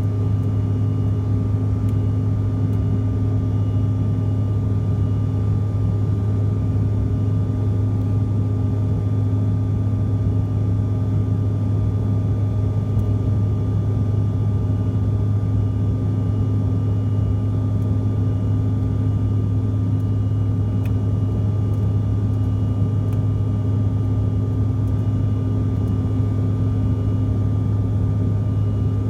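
Steady drone of a CRJ700's rear-mounted GE CF34 turbofan engines heard inside the cabin, a deep hum with a few fixed higher tones over rushing air noise, unchanging throughout.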